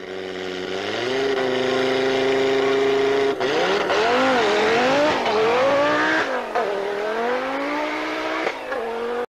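Race car engine, fading in and climbing to high revs and holding there, then rising and falling in pitch repeatedly as it is revved and driven. It cuts off suddenly at the end.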